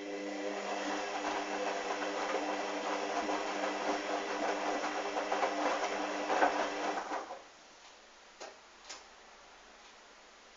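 Hoover washing machine's motor turning the drum through a wash, with a steady hum and the sloshing of wet, sudsy towels. It stops after about seven seconds, and two short clicks follow.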